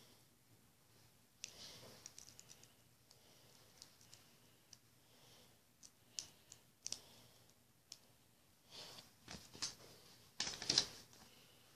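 Scattered faint clicks and rustles of hands handling an item and its packaging being unboxed, with a louder burst of rustling near the end.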